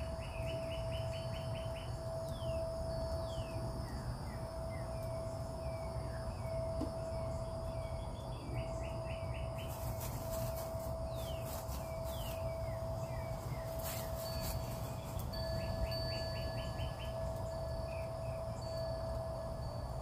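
Wild birds calling: short rapid trills repeated every few seconds and quick down-slurred chirps, over a steady held tone and a low rumble of background noise.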